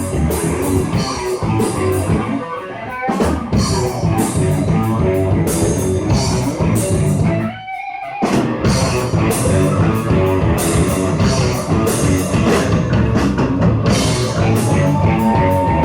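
Rock band playing live: an instrumental passage of electric guitar over a drum kit, with no singing. About halfway through the band drops out for a split second, then comes back in, and near the end a guitar holds a long, slightly rising note.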